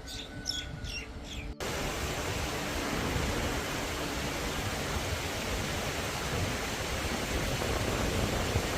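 A few quick bird chirps for about a second and a half, then an abrupt cut to a steady rushing noise that stays even to the end.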